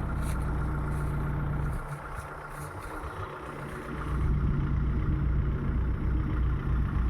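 Tractor diesel engine running steadily; about two seconds in it drops away and turns quieter, then comes back louder and deeper about four seconds in.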